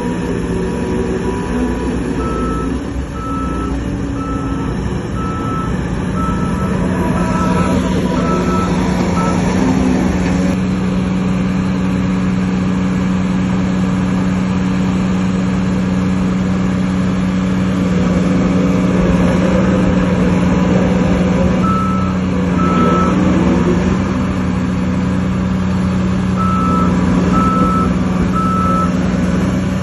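Heavy diesel machinery engine running steadily and working under load, with a reversing alarm beeping about once a second. The beeps come in runs: from about two seconds in for several seconds, briefly past the middle, and again near the end.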